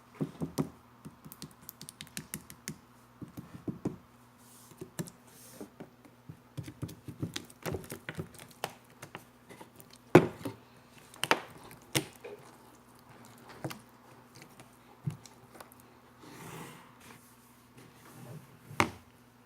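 Jiggly slime being handled: irregular soft clicks, pops and squishes, with a few sharper taps, the loudest about halfway through and near the end.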